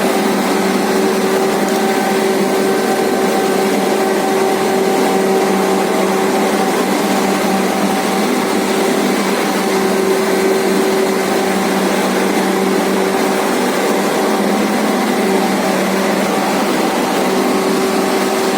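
Harbs four-sided planer-moulder running steadily: a constant whirring machine noise with a steady hum, unchanging throughout.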